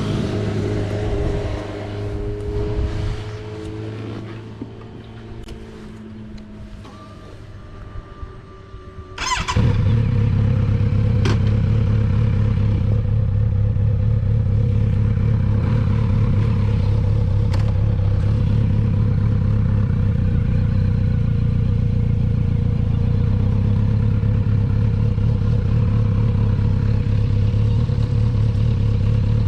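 Kawasaki Z900RS inline-four motorcycle engine. It dies away over the first nine seconds, then about nine seconds in comes in suddenly and loud and runs steadily at an even speed.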